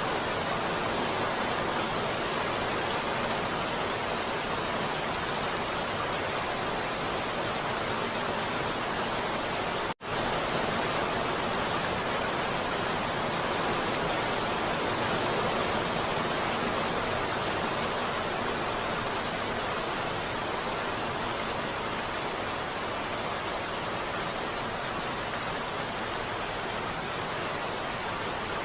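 Heavy rain falling steadily, an even hiss without thunder. About ten seconds in the sound cuts out for a split second and resumes.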